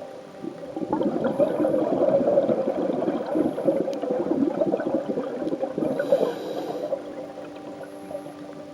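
Exhaled scuba-regulator bubbles heard underwater: a dense rush of bubbling starting about a second in, lasting about six seconds, then fading.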